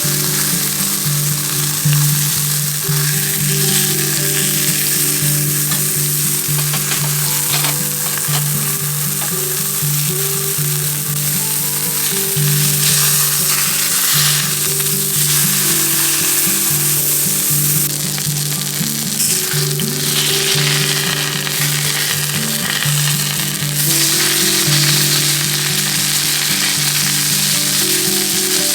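Hamburger patty frying in a pan, a steady loud sizzle throughout.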